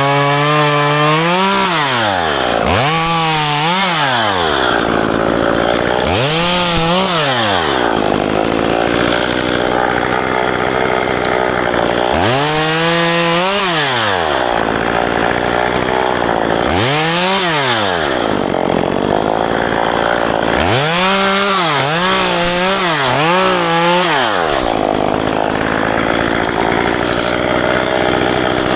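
Two-stroke chainsaw cutting ficus branches. The engine revs up and falls back again and again, with stretches of sawing through wood between the revs.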